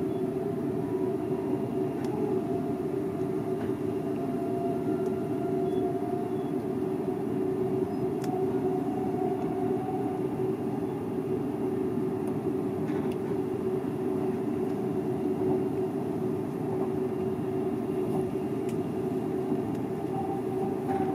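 Seibu 001 series Laview electric train running, heard from the cab: a steady rumble of wheels on rail with a held hum and a fainter tone above it that rises slightly and then eases, with a few faint clicks.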